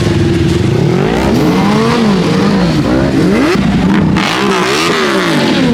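Several motorcycle engines revving up and down over and over, their overlapping revs rising and falling in pitch, loud throughout.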